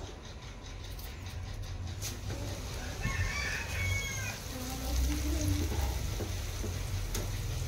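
Chuda (flattened rice) frying in hot oil in a wire strainer in a steel kadai, under a steady low hum. About three seconds in, a chicken calls once.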